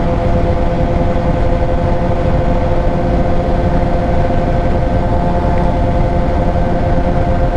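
Suzuki GSX-R 600 inline-four engine running at steady cruising revs, its tone holding level with no revving, under heavy wind noise.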